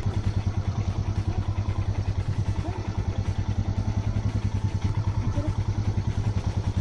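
Royal Enfield single-cylinder motorcycle engine running at low, steady revs with an even, rapid thump.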